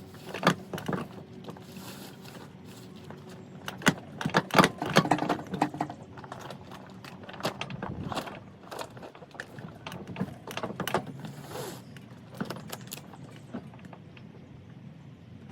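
Parts of a new inflatable dinghy kit being unpacked and handled: irregular clatter, knocks and clicks, the busiest about four to five seconds in. A low steady hum runs under it for the first few seconds.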